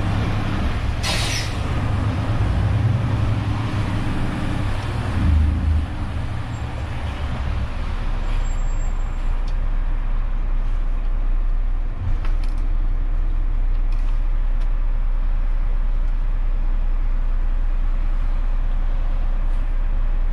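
Renault truck's diesel engine running, with a short sharp hiss of air brakes about a second in. The engine is louder and varying for the first few seconds, then settles to a steady low drone.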